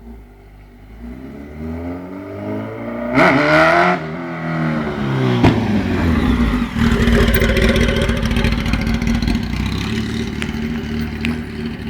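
Kawasaki ZX10R inline-four engine running without an exhaust, open and loud. It builds up, gives a sharp rev that rises and falls about three seconds in, then settles into steady running.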